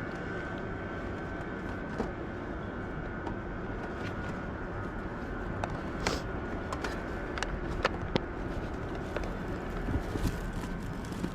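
Steady low rumble of strong wind on the microphone. A few sharp light clicks and knocks come in the second half.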